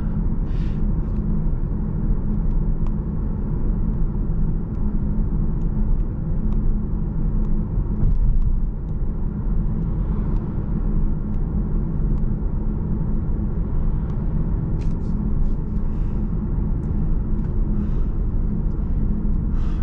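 Steady road noise of a car heard from inside the cabin while driving: a constant low rumble of tyres and engine with a faint steady engine hum.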